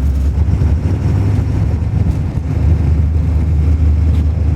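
1996 Ford F350's 7.3 Powerstroke diesel engine running steadily under way, with a loud low rumble of engine and road noise from the truck driving on a snowy road.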